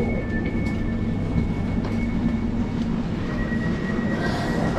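Elizabeth line Class 345 electric train running, a steady rumble with a thin high electric whine over it; a new whining note comes in about three seconds in.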